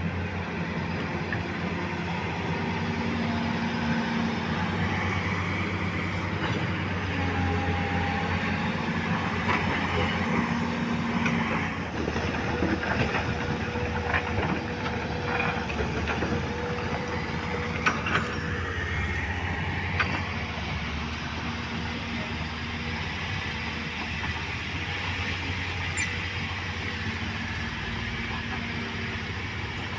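Heavy diesel engines running steadily, their pitch shifting slightly as they work, with a few sharp metallic knocks and clanks between about 9 and 20 seconds in.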